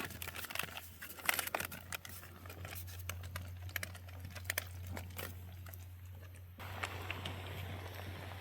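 MRE pouches and their cardboard heating sleeve being handled: scattered crinkles, taps and rustles. About two-thirds of the way through, a steady faint hiss sets in suddenly.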